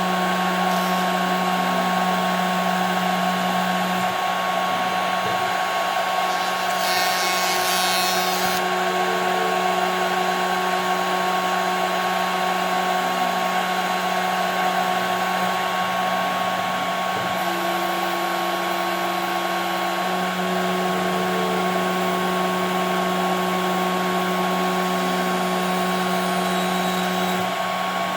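CNC router spindle running steadily with a constant whine, machining 5 mm plexiglass. A brief high hiss comes about seven seconds in, and one tone dips slightly in pitch for a few seconds past the middle.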